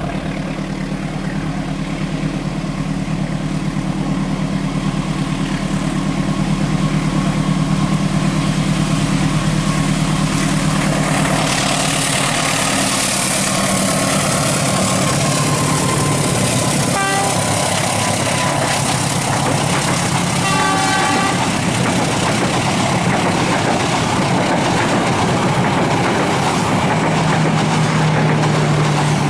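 Diesel locomotive engine droning and growing louder as a passenger train approaches, then the rushing rumble of the train passing from about eleven seconds in. Short horn toots sound around the middle.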